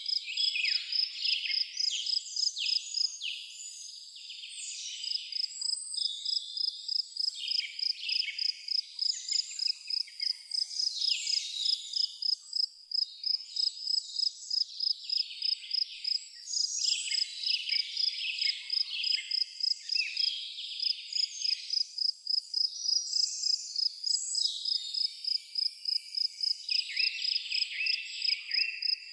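A cricket chirping steadily at a high, even pitch, about three chirps a second, while several songbirds sing varied, overlapping phrases throughout.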